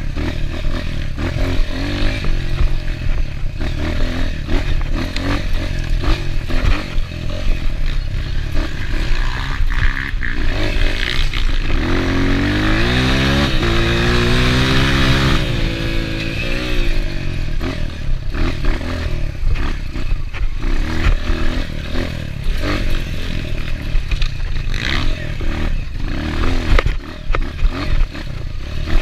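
Enduro motorcycle engine running over rough ground, with clattering and knocks throughout. About twelve seconds in it revs up, its pitch climbing for a few seconds before dropping back.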